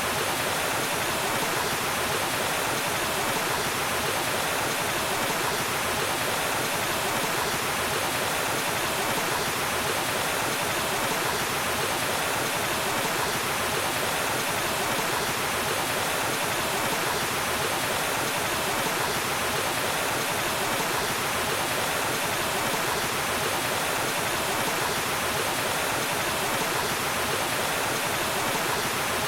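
Waterfall: water falling and rushing in a steady, unbroken wash of noise with no changes.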